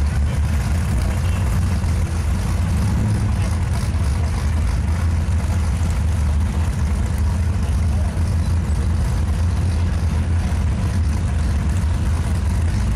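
Car engine idling, a steady low rumble that holds level throughout.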